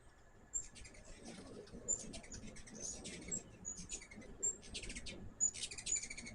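Hummingbirds chittering: bursts of rapid, high, clicky chips with short squeaky notes, loudest near the end.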